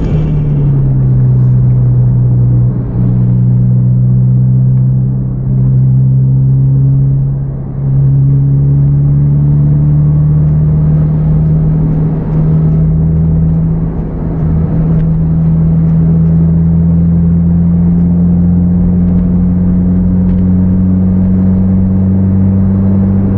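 Car engine droning steadily under road noise, heard from inside the cabin while following a bus, its pitch climbing slowly as speed builds, with a few brief dips in loudness.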